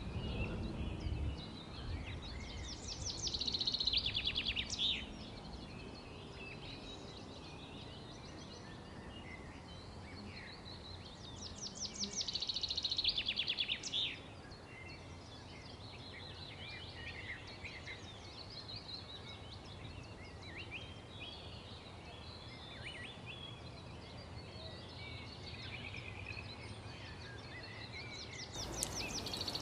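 Forest birdsong: one bird repeats a loud, rapid trilling song about every ten seconds, three times, while other birds chirp more faintly in between over a steady background hiss.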